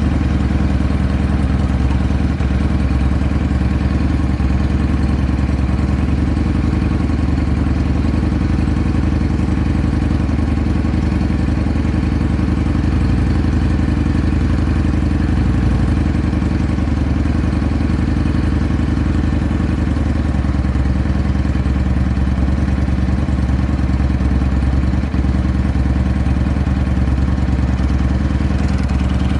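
Honda Steed 400 V-twin motorcycle engine idling steadily through an aftermarket Supertrapp megaphone muffler. It runs evenly with no abnormal noises.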